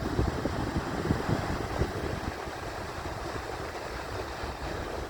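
Wind buffeting the microphone over the rush of sea surf on the shore, gusty for about the first two seconds, then steadier and quieter.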